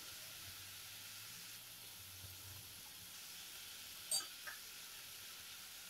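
Faint, steady sizzling of dry fish masala in hot oil in the kadai, with two brief clicks about four seconds in.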